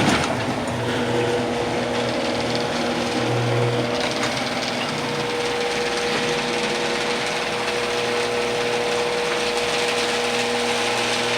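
Genie Pro screw-drive garage door opener closing the door: its motor starts suddenly and runs steadily, driving the screw rail with a even mechanical hum and hiss.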